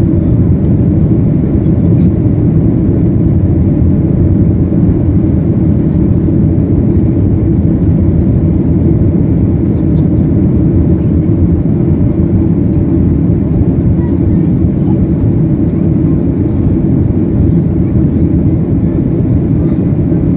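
Steady low roar of a Boeing 737-800's CFM56 turbofan engines and airflow, heard inside the cabin during the climb after takeoff.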